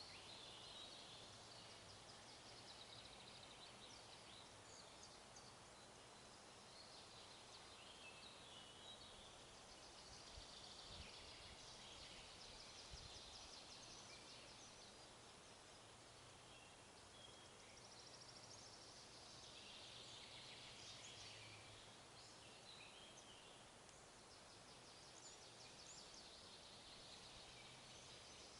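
Faint forest ambience: songbirds singing in recurring bursts of quick chirps and trills over a steady, even hiss.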